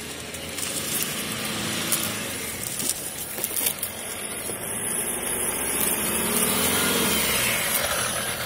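Maruti Suzuki Ciaz sedan's engine running under load as the car pushes through loose, dry soil, its revs rising and growing louder about six seconds in. The car is close to bogging down in the soft dirt and needs more throttle to keep moving.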